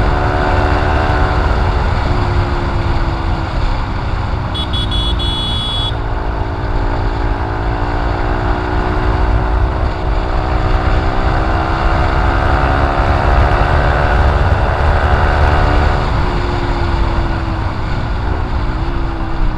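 Old Honda CB150R's single-cylinder four-stroke engine running through a short Proliner full-system aftermarket exhaust. The revs rise and fall slowly under a heavy low rumble. A brief high beep sounds about four and a half seconds in.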